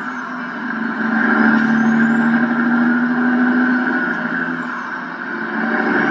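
A road vehicle's engine running steadily with a low hum, swelling and easing about every four seconds.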